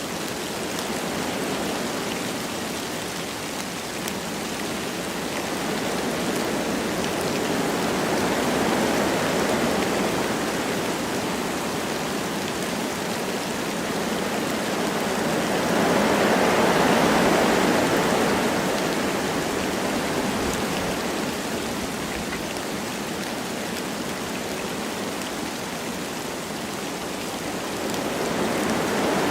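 Wind blowing through forest trees with light rain, a steady rushing that swells into a stronger gust about halfway through and then eases again.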